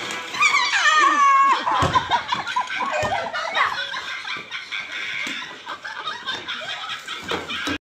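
Laughter and shrill, wavering shrieks, with two sharp thumps about two and three seconds in as people fall on a wet concrete floor. The sound cuts off suddenly near the end.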